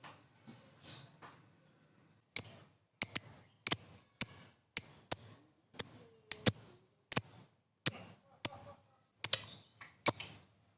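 Lovebird giving a series of short, sharp, high-pitched chirps, roughly two a second, starting about two seconds in after a few faint calls.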